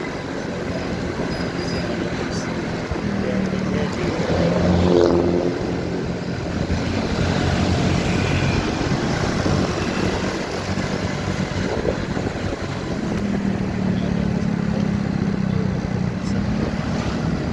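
Motorcycle riding in road traffic: steady engine and wind noise, with vehicle engine sound swelling louder about five seconds in and again near the end.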